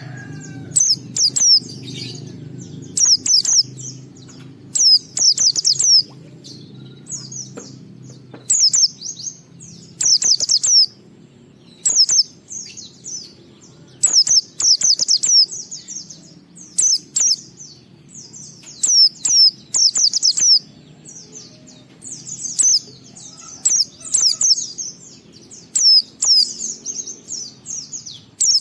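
Pleci (white-eye) singing in quick, repeated bursts of high twittering notes, about one short phrase every second, in the run-on ngalas song style used as a lure to set other pleci singing.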